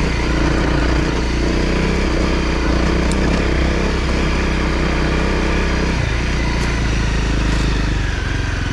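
Honda CRF250L's single-cylinder four-stroke engine running under way, then easing off about six seconds in as the bike slows.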